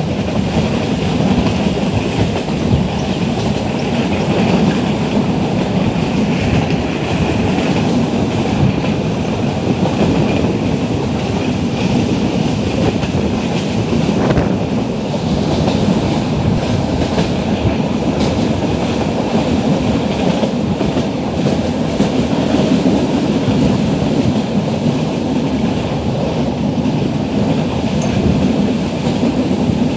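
Metre-gauge passenger train running along the track, a steady loud rumble of the coaches and their wheels on the rails, heard from an open coach doorway.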